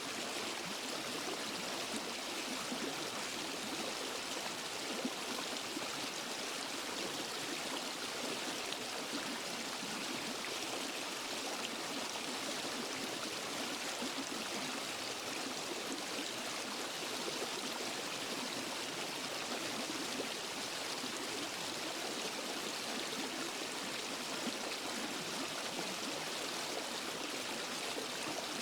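Waterfall and forest stream: water falling and rushing over rocks in a steady, even hiss with light gurgling.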